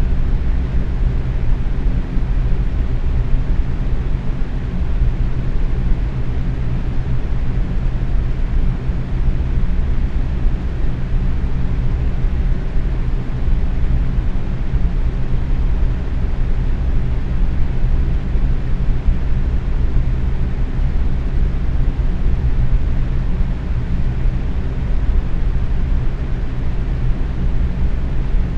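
Box fan running steadily at medium speed: an even rush of moving air, heaviest in the low end, with a faint steady motor hum under it.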